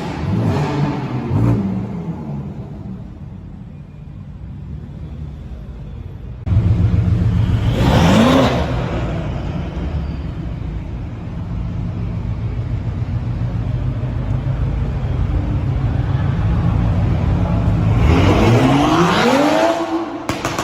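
Car engines revving and accelerating. A loud engine cuts in suddenly and revs up, and near the end another engine climbs in pitch through a long rev.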